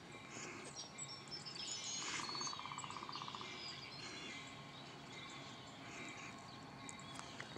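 Birds chirping and calling faintly, with many short high chirps. A rapid, even trill starts about two seconds in and lasts about a second and a half.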